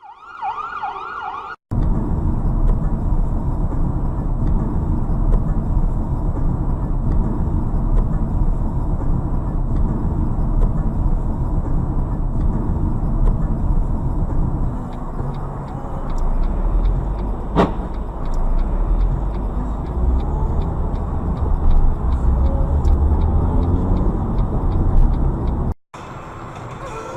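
A car driving, recorded by a dashcam inside the car: steady, loud engine and road noise, with one sharp click about two-thirds of the way through. A brief wavering siren sounds just before the road noise begins.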